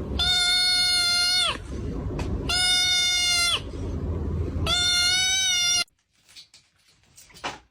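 Three long, flat-pitched bleating cries about a second apart, each dropping in pitch at its end, over a low rumble; the sound cuts off abruptly about six seconds in, leaving faint clicks.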